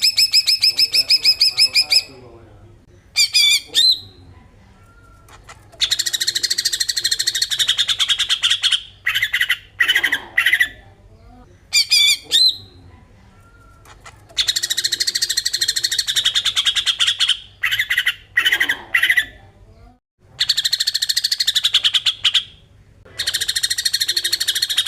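Cucak ijo (green leafbird) giving its besetan: bursts of very rapid, rattling, fast-repeated notes, each lasting a couple of seconds. The bursts are separated by short pauses and briefer clipped fragments, and are used as a lure call to provoke other birds.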